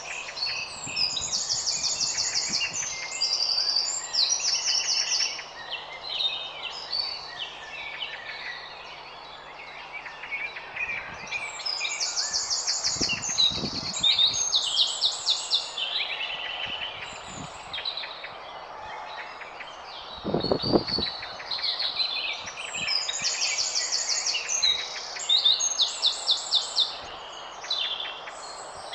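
Garden songbirds singing: one bird repeats a loud phrase of rapid, high trilled notes about every 11 seconds, three times, with softer chirps between. A short low thump comes about two-thirds of the way through.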